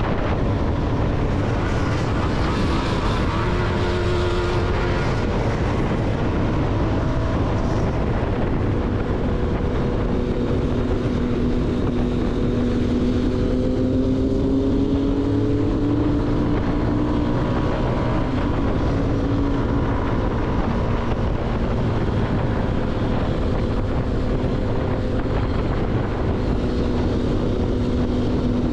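CFMoto motorcycle engine running steadily under way, its pitch rising gently in the middle and easing back, with wind noise on the microphone.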